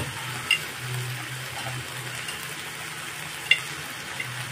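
Soya chunks, peas and onion frying in a kadhai, a steady low sizzle with two sharp ticks, about half a second in and again near the end, over a steady low hum.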